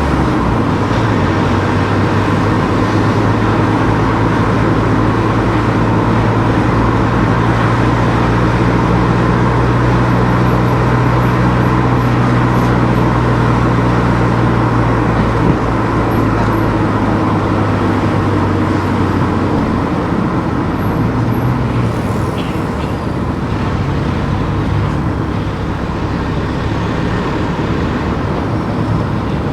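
A car driving, its engine running with a steady low hum over road and tyre noise. About two-thirds of the way through, the engine note drops and changes.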